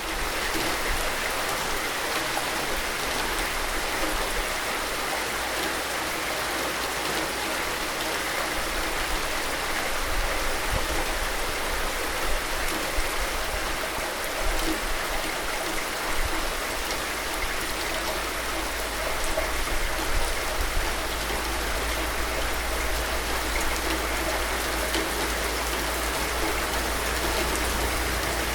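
Steady rain falling, a continuous even hiss of drops that holds without pause.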